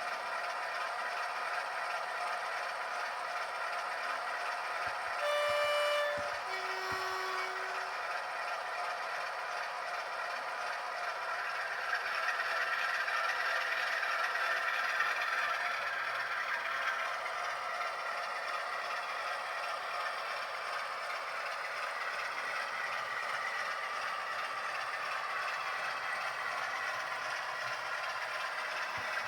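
Sound-fitted model diesel locomotive running steadily with a rattling engine sound, its two-tone horn sounding about five seconds in, a high note followed by a lower one.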